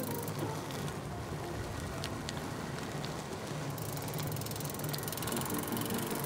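Bicycle being ridden: steady tyre and wind noise with a few sharp clicks from the bike.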